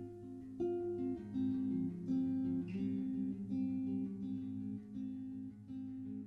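Acoustic guitar music: plucked notes changing about twice a second over a low sustained tone.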